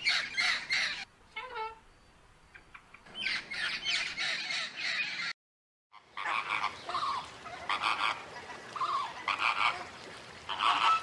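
A blue-and-yellow macaw squawking in two bursts of rapid, harsh screeches. After a brief silent cut, a flock of flamingos calls over one another.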